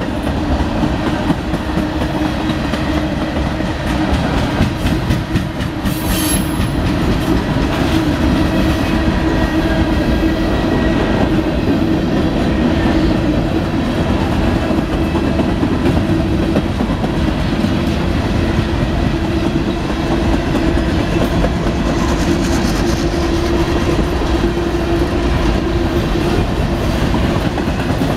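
The cars of a Norfolk Southern mixed freight train roll past at a steady speed: covered hoppers, a tank car and refrigerated boxcars. Their steel wheels clack over the rail joints above a steady low hum.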